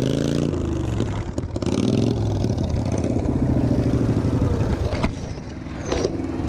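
Small riding-lawnmower engine revving, its pitch rising and falling over the first two seconds, then running more steadily, with a sharp knock about five seconds in.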